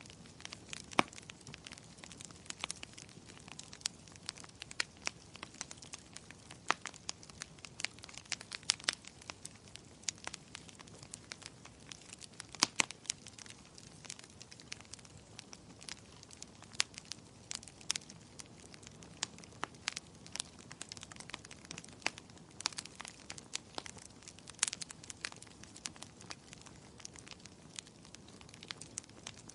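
Wood fire crackling in a fireplace: frequent sharp, irregular pops and snaps over a soft steady hiss of the flames.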